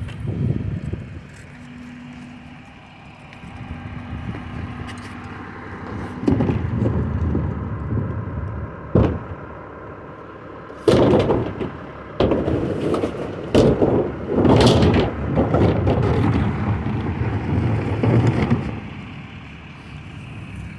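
Recycling truck running, with a burst of loud bangs, thumps and clatter through the middle of the stretch.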